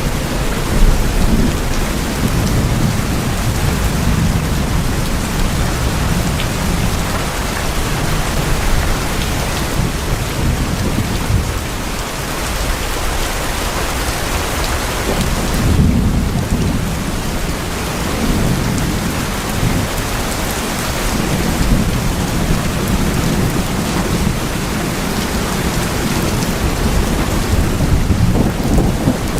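Steady heavy rain on tin roofs, with low rolling thunder underneath that dies away about halfway through and rumbles back a few seconds later.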